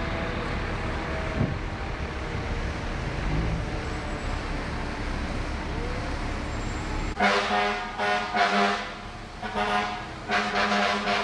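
Fire truck air horn sounding a series of short, loud blasts, starting about seven seconds in. Before that, a steady rumble of idling vehicle engines.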